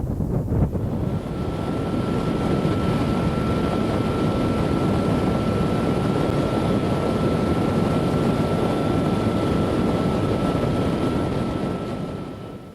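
Motorcycle riding at steady speed, heavy wind rush on the microphone over the running engine, with a steady high whine joining about a second in. It all fades out near the end.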